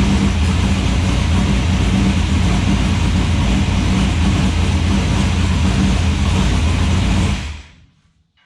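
Diesel excavator engine running steadily at a constant low speed while it warms up, not revved because the oil is still cool. It dies away quickly about seven and a half seconds in.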